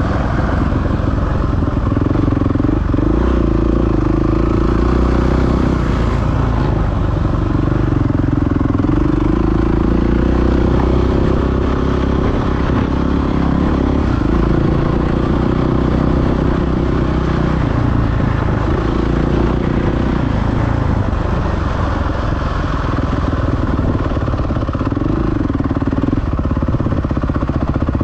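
Motocross bike engine running hard, its pitch rising and falling again and again as the throttle is worked, over a steady rush of noise.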